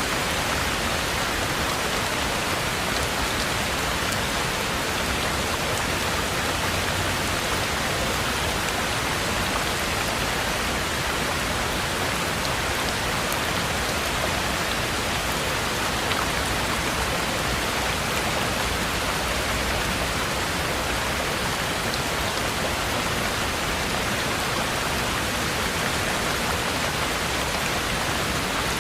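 Heavy rain falling steadily: a dense, even hiss of rain with no let-up and no distinct individual events.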